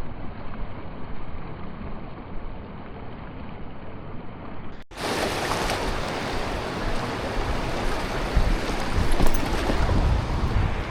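Fast-flowing Niagara River current rushing, with wind buffeting the microphone. About five seconds in the sound cuts abruptly from a muffled rush to a brighter, fuller one.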